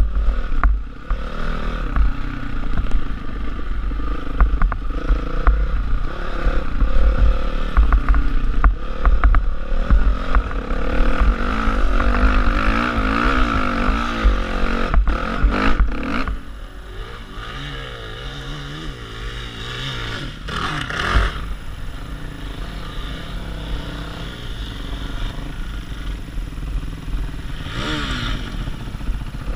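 Honda CRF450R single-cylinder four-stroke dirt bike engine being ridden off-road, its pitch rising and falling with the throttle, under heavy wind buffeting on a helmet-mounted camera. It is louder and busier for the first half. About halfway through it drops to a quieter, lower note, with one short rev near the end.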